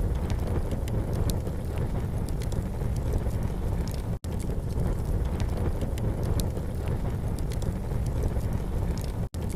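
Campfire burning with scattered sharp crackles and pops over a steady low rumble. The sound cuts out for an instant twice.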